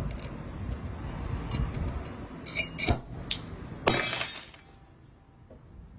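Several sharp clinks with a high ringing, then a louder crash just before four seconds in that rings on briefly.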